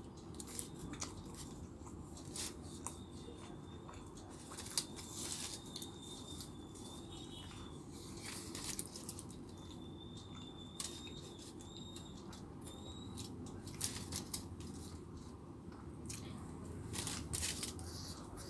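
Crunching and chewing of a crispy fried chicken burger, with irregular sharp crackles as the fried coating breaks between the teeth.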